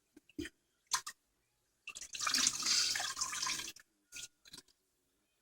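Water running and splashing for about two seconds as a washcloth is rinsed out, after a few light knocks.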